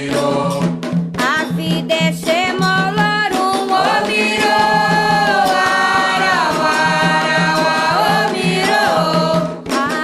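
Voices singing a Candomblé Ketu chant in Yoruba together, holding long gliding notes, over steadily beaten hand drums.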